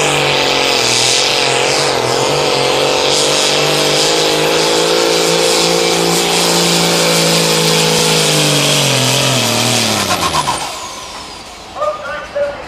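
Pro Farm class pulling tractor's diesel engine running hard and steady at high revs under load, with a faint high whine above it. About ten seconds in, the revs fall away and the engine winds down as the pull ends.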